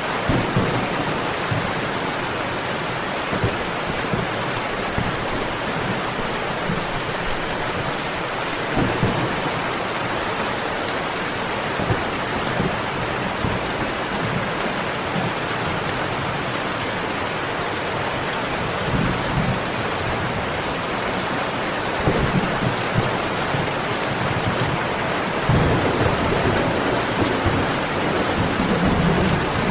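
Steady heavy rain, with scattered short sharp cracks and a low rumble that swells near the end.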